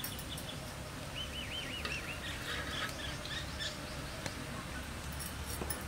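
Faint outdoor ambience with a bird calling: a short warbling call about a second in and a few scattered faint chirps, over a steady low background noise.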